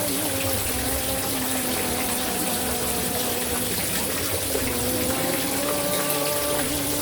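Steady rush of running water, with a sholawat chant underneath: one voice holding long notes that shift slowly in pitch.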